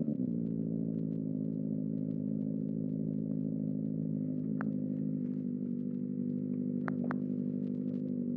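Kawasaki ZX-4RR's inline-four engine idling steadily through a Trick Star Ikazuchi slip-on exhaust, the revs dropping back to idle right at the start. A few light clicks sound about halfway through and near the end.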